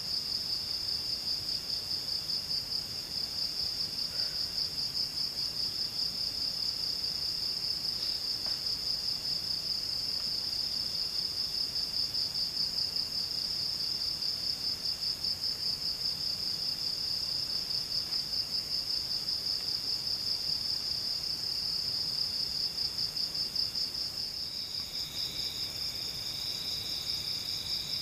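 Insects trilling in a forest at night: one continuous high, rapidly pulsing trill, with another insect calling intermittently at a lower pitch. Near the end, a second, lower trill joins in.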